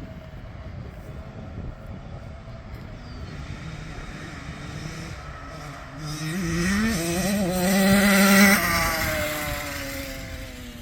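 Dirt bike engine, distant at first, then revving up in steps as it approaches and grows loud. About eight and a half seconds in it passes close by, and its pitch drops as it fades away.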